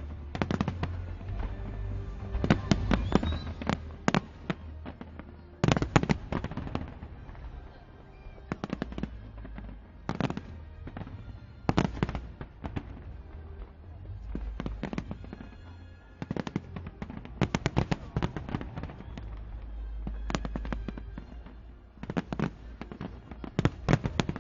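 Fireworks display: clusters of sharp bangs and rapid crackling every second or two over a continuous low rumble, with a crowd's voices reacting underneath.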